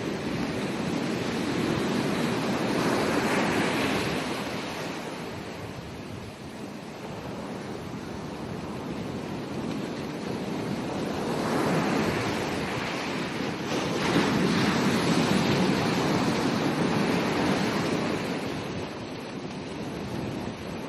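Ocean waves breaking and washing up on a beach, the surf swelling and falling back in slow surges several seconds apart, with some wind.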